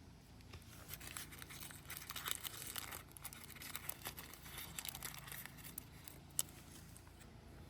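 Crinkling, rustling handling noise of something like packaging being worked by hand, for a few seconds. Near the end there is a single sharp click.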